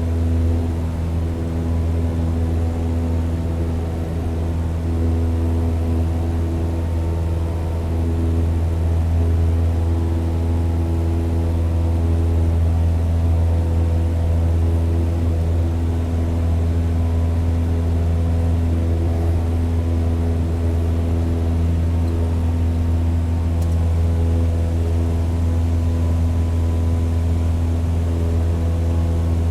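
Propeller aircraft engine running at steady power: a deep, even drone with several steady tones above it, holding pitch throughout.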